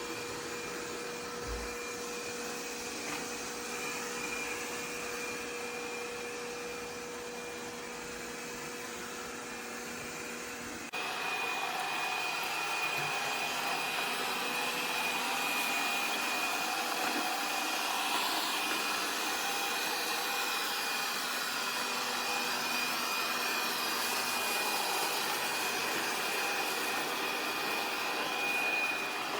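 Laresar robot vacuum running with a steady whir and a high whine. About eleven seconds in, the sound changes and gets louder, as if the suction stepped up.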